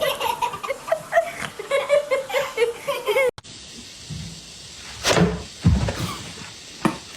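A person laughing in short repeated bursts. It stops abruptly and gives way to a few dull knocks or thumps.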